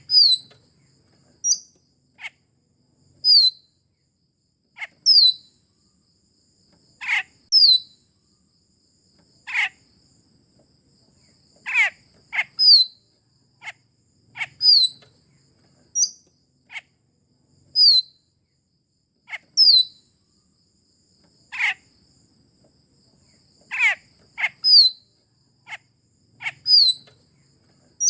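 Sulawesi raja perling bird lure call: short, sharp whistled notes that sweep downward, repeated every second or two in an even pattern, over a steady high-pitched thin tone.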